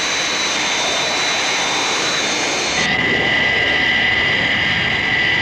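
Jet airliner engines running steadily with a high whine. About three seconds in the sound switches abruptly to a different, lower whine.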